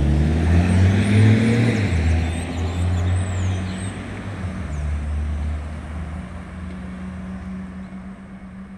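Street traffic: a motor vehicle's engine accelerating close by, its pitch rising over the first two seconds, then holding a steady note as it fades away.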